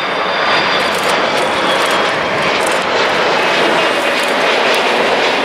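Jet airliner's engines passing close by with a loud, steady rushing noise and a faint high whine that fades out about two seconds in.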